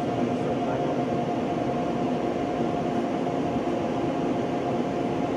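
Military jet engine running steadily in a test cell: an even drone with a constant mid-pitched whine.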